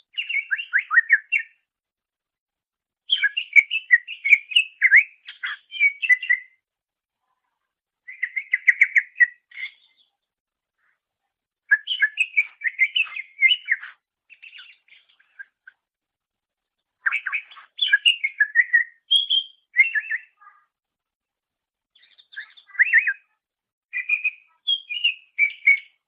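Cucak ijo (green leafbird) singing: six phrases of rapid, varied chirps and whistles, each lasting two to four seconds, with short silences between them.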